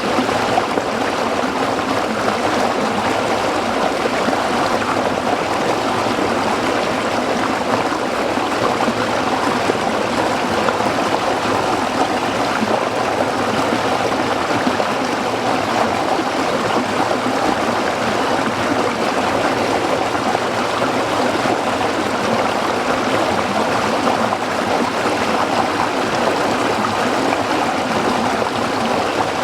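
A shallow stream flowing and babbling over rocks, a steady, even rush of water.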